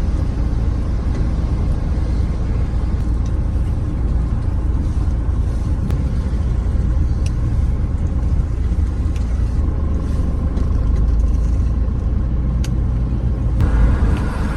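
Heavy truck engine running with a deep, steady rumble. About a second before the end, a higher steady tone joins in.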